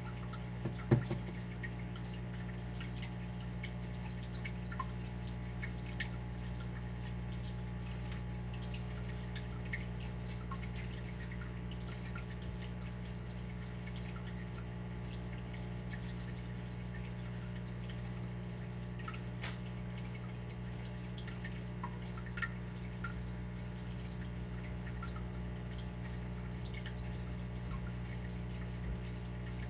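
Water dripping: irregular single drops ticking at an uneven pace over a steady low hum, with one louder drop about a second in.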